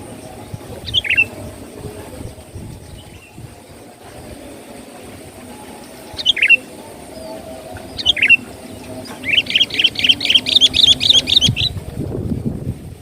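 Sooty-headed bulbul (kutilang) calling: three short separate notes sweeping downward, then a fast chattering run of notes lasting about two seconds. Steady low background noise runs underneath, with a brief low rumble near the end.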